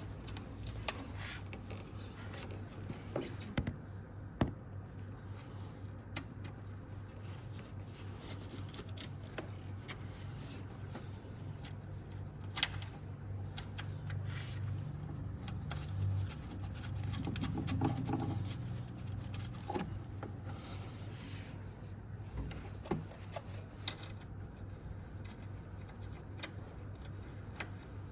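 Scattered clicks, knocks and rubbing of hand tools and parts being handled during a front shock absorber replacement, over a steady low hum.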